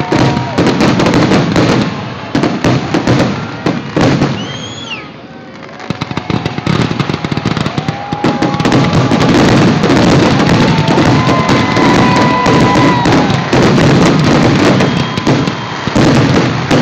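Fireworks display going off: a loud, dense run of bangs and crackling, with whistling tones that slide in pitch. There is a short lull about five seconds in, then a steady barrage.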